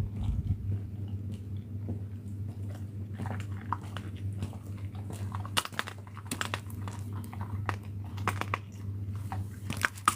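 An animal chewing and crunching food, with irregular crunches and clicks over a steady low hum.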